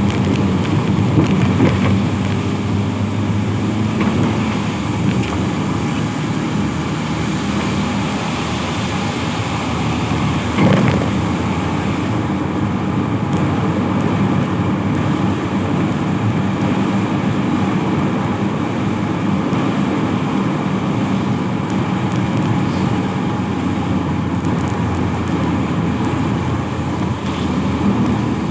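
Steady road traffic: vehicle engines running on a road, with a brief louder passing sound about eleven seconds in.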